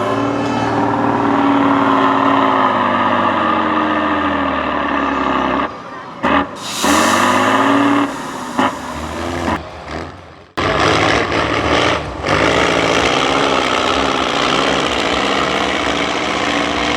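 Off-road competition truck's engine revving and labouring, its pitch rising and falling, with a short burst of air hissing about seven seconds in.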